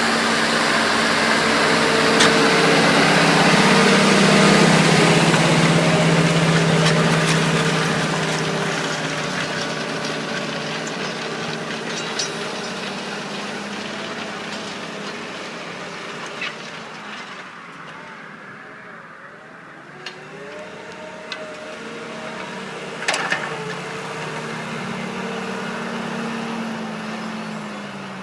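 New Holland TM150 tractor's six-cylinder diesel engine working under load, pulling a four-furrow plough. It is loud at first, fades steadily until about two-thirds of the way through, then grows louder again, with a few sharp knocks near the end.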